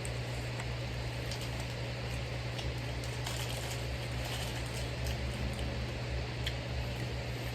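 Faint eating sounds, soft wet squishes and small clicks of chewing and handling food, over a steady low hum.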